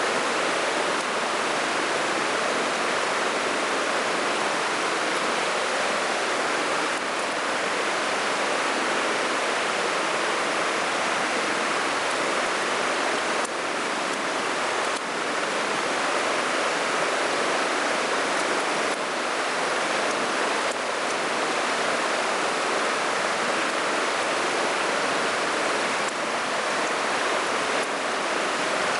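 Mountain stream water rushing steadily over rocks, with a few faint clicks from about halfway in.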